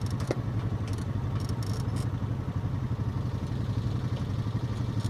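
Off-road bike engine running steadily on a trail ride, with short clattering knocks now and then over the engine drone.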